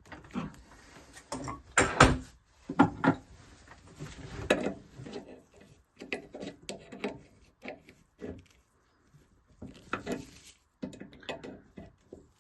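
Irregular handling noise from boiler repair work: a string of knocks, clicks and scrapes as tools and fittings are handled, loudest about two seconds in.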